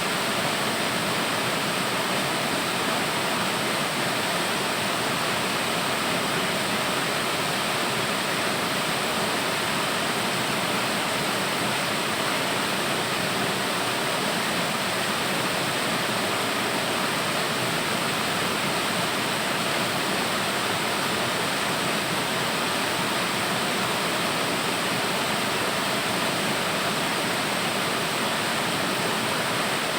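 Waterfall rushing steadily, a dense even roar of falling water with no breaks.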